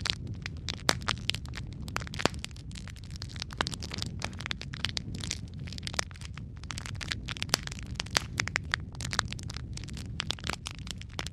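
Wood fire in a fireplace crackling: many irregular sharp pops and snaps over a steady low rumble of the burning.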